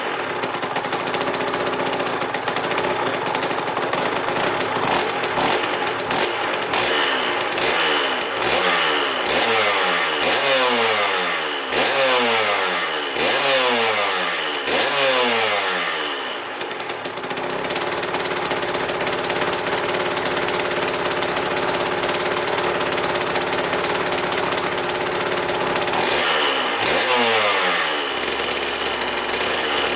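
Aprilia RS 125's Rotax 122 two-stroke single idling, blipped repeatedly: a run of about seven quick revs, each rising and falling, then a steady idle, then more blips near the end. The engine is warming up after a rebuild.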